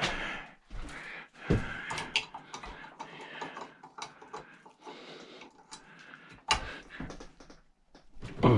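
Scattered small metal clicks and knocks as hand tools and a barbecue gas jet's brass and cast aluminum parts are handled, with a louder knock near the end.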